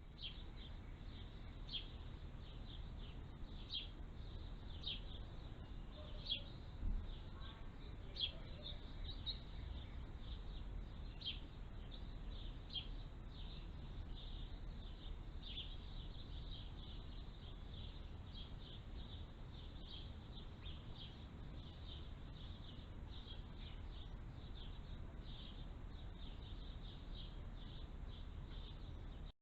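Small birds chirping: short, sharp, high chirps repeated over and over, faint, over a low steady background rumble.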